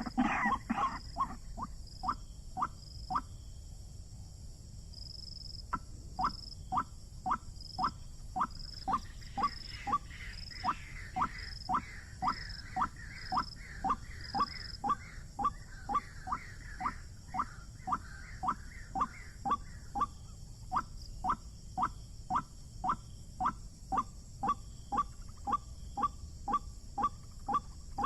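White-breasted waterhen calling: a short falling note repeated monotonously, about twice a second, with a brief pause a few seconds in. A bubbling chatter runs over it through the middle.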